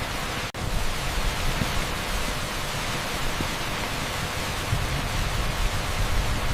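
Torrential rain pouring onto an asphalt street: a dense, steady hiss with no breaks except a split-second dropout about half a second in.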